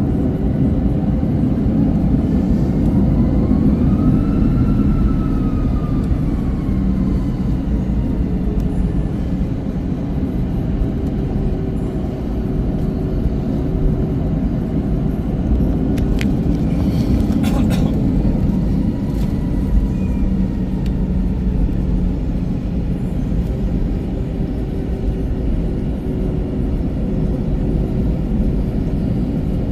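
Steady, loud low rumble inside an Airbus A321-200 cabin on the ground, with a few steady hums running through it. A tone rises and then falls a few seconds in, and a short run of clicks or rattles comes about halfway through.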